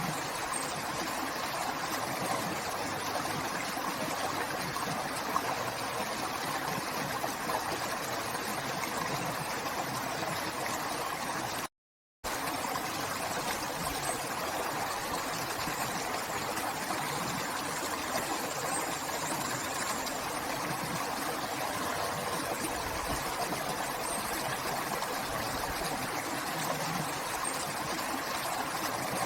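River water flowing in a steady rush, with a brief drop to silence for about half a second near the middle.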